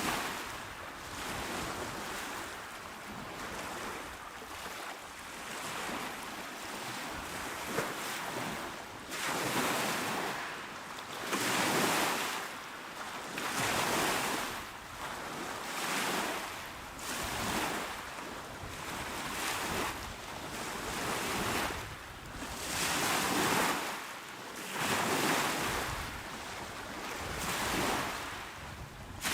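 Small waves washing onto a shore, each one swelling and fading every two to three seconds, a little stronger in the second half.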